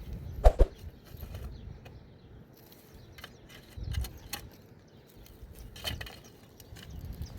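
Sparse knocks and clicks, two louder knocks about half a second in, then scattered lighter taps and thuds.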